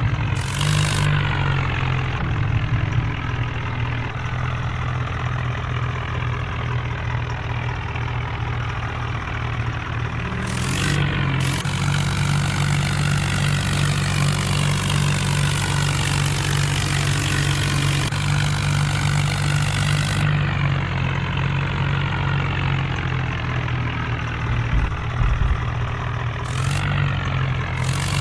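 Tractor and SUV diesel engines running hard under load during a tug-of-war pull, the engine note rising and falling as they strain.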